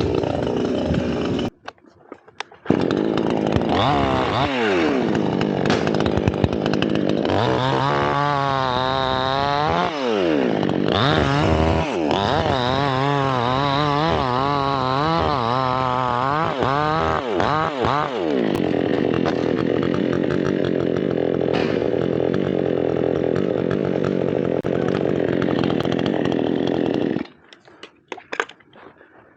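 Chainsaw running and cutting into teak wood. About a second and a half in it breaks off, resuming a second later. Its engine pitch then swings up and down over and over before settling into a steady run, and it stops suddenly about two seconds before the end.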